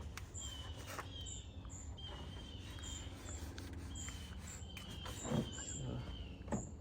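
Birds chirping again and again in short, falling calls over a steady low rumble of outdoor noise, with a couple of light knocks in the second half.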